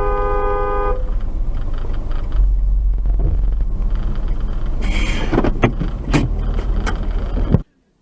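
A car horn blaring, ending about a second in, followed by steady low road and engine rumble of a moving car, with a few sharp knocks. The sound cuts off abruptly near the end.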